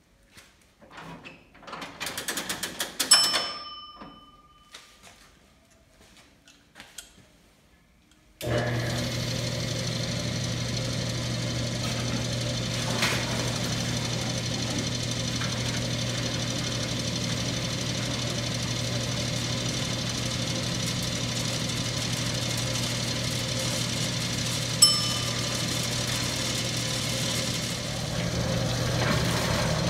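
1939 Bennett 541 gas pump's electric motor switching on about eight seconds in and running with a steady hum as the pump delivers diesel fuel through its nozzle. Before it starts there are light clicks and rattles, and a bell dings twice, once before the motor starts and once while it runs.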